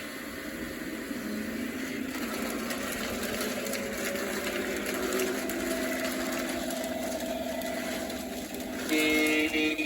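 O-gauge model trains running on the layout track, a steady rough rumble with faint motor tones. Near the end the locomotive's sound system gives a loud horn blast of about a second.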